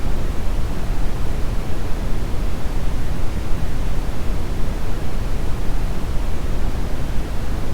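Steady brown noise: an even, deep rumbling hiss with most of its weight in the bass, unchanging throughout.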